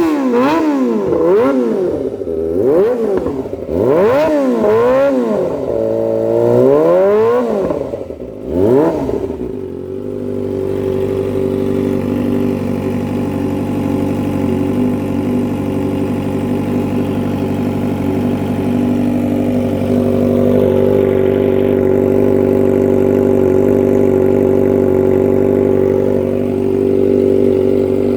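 Kawasaki Ninja ZX-25R's 250 cc inline-four engine through an Avionic aftermarket exhaust, revved in quick repeated blips that rise and fall in pitch, then settling into a steady idle about ten seconds in.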